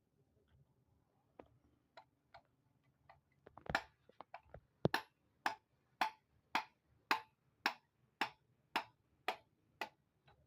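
Hammer blows: a few scattered knocks, then a steady run of about ten sharp strikes, roughly two a second, each with a short ring.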